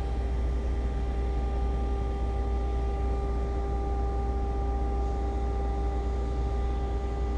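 Steady machine hum: a constant low drone with a few even tones above it, unchanging throughout.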